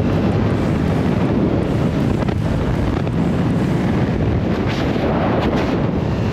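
Steady, heavy wind rush over the microphone of a riding motorcycle, typical of a bike camera at road speed, with a few faint knocks in the second half.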